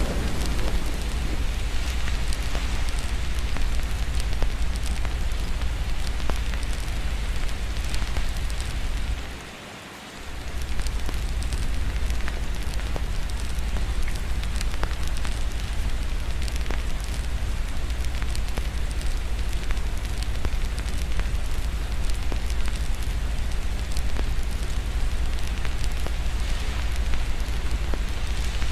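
Steady rain hiss mixed with the crackle and pops of a wood fire, over a constant deep low rumble. About ten seconds in, the whole bed, the rumble above all, dips sharply for about a second, then returns.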